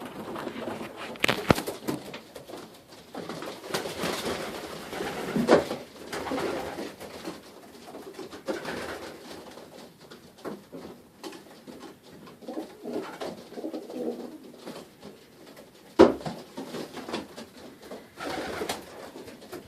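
Young racing pigeons cooing in a small loft, with scattered clicks and rustles and a few sharp knocks, the loudest about sixteen seconds in.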